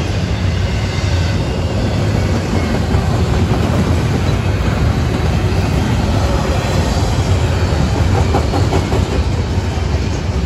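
Intermodal freight cars with double-stacked containers rolling past close by: a steady, loud rolling noise of steel wheels on rail, heaviest in the low end.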